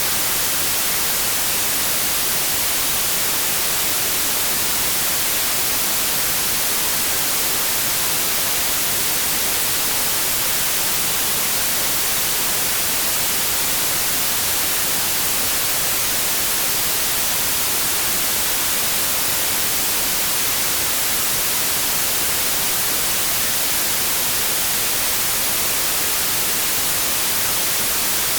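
Steady synthetic white noise: an even, unchanging hiss across all pitches, with no tones or events.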